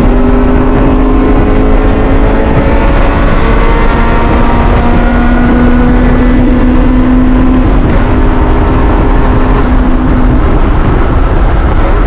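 Honda CRX's B16A four-cylinder engine running hard at high revs, pitch held nearly steady and easing down slowly, over heavy wind and road rush on a loud in-car recording.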